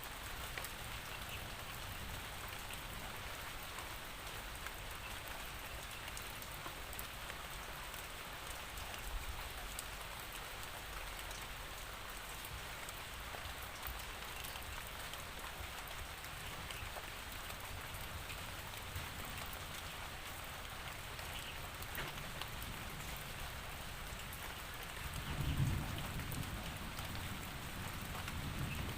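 Steady rain falling, with a low rumble of distant thunder about 25 seconds in and again near the end.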